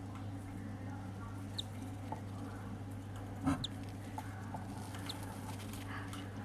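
Cockatiel chick giving three brief, high peeps spread across a few seconds over a steady low hum, with a short knock just after halfway.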